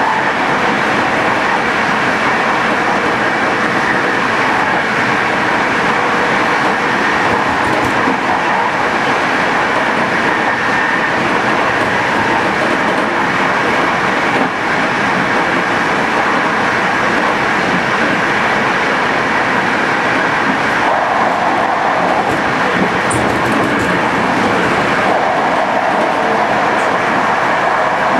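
Locomotive-hauled passenger train running steadily at speed, with the continuous rumble and rush of its wheels on the rails.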